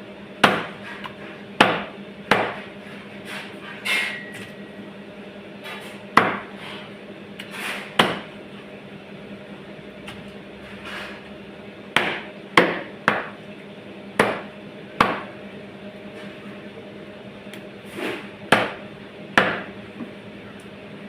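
About a dozen sharp, heavy knocks, irregularly spaced, each with a short ringing tail, over a steady low hum.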